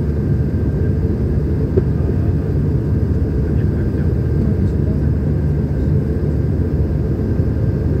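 Steady low rumble of an Airbus A220-300 airliner heard inside the passenger cabin: engine and airflow noise with no changes or distinct events.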